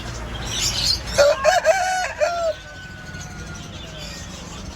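A rooster crowing once, a call of several linked syllables lasting about a second and a half, starting about a second in. High, quick chirps of small birds come just before it.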